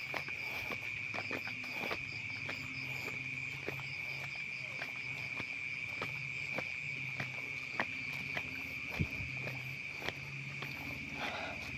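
A chorus of night insects, crickets, trilling steadily in one high pitch, with scattered light clicks and taps through it.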